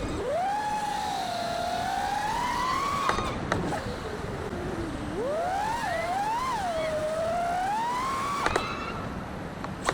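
A 5-inch FPV quadcopter's T-Motor Pacer 2306 1750kv brushless motors whining, the pitch sliding up and down with the throttle, falling to its lowest about five seconds in and then climbing and wavering again. A few short sharp clicks cut through, around three seconds in and again near the end.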